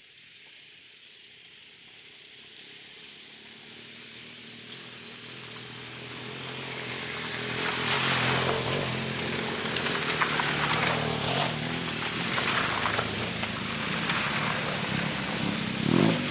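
BMW R1200GS boxer-twin motorcycle running under way, with a hiss of wind and road noise. It starts faint and grows steadily louder over the first half, then holds, with a short louder surge near the end.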